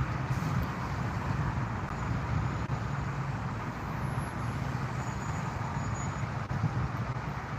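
Steady rumble of aircraft engines, even in level throughout.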